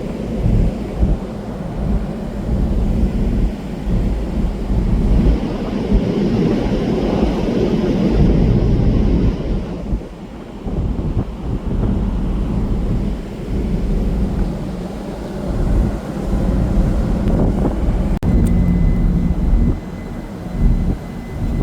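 Loud, uneven low rumble aboard a car ferry under way, with gusty swells in loudness. A faint steady high tone comes in near the end.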